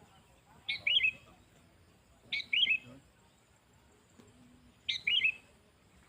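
Sooty-headed bulbul (kutilang) calling: a short, bright phrase of three or four quick notes, repeated three times about two and a half seconds apart.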